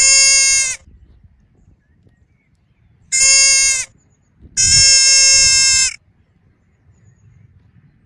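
Three loud bleating animal calls. Each is held at one steady pitch, and the third is the longest.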